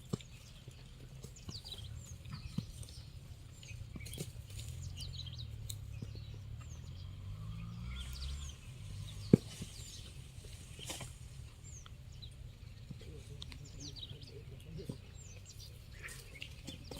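Small birds chirping on and off, short falling calls scattered throughout, over a low steady background rumble, with a few clicks and one sharp click about nine seconds in.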